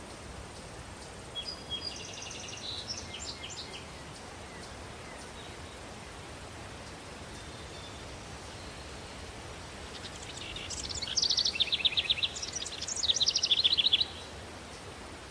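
A songbird sings twice over a steady background hiss of outdoor ambience. The first is a short, fainter phrase about a second and a half in; the second is a louder run of rapid trills from about ten to fourteen seconds in.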